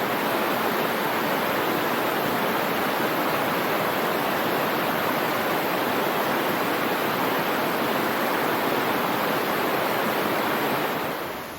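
Waterfall: a steady, even rush of falling water that eases off slightly near the end.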